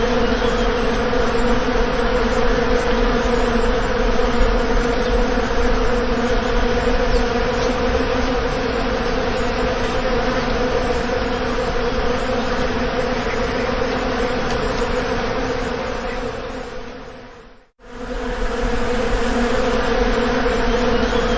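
Bees buzzing in a steady, dense drone; the buzz fades out about three-quarters of the way through and fades straight back in.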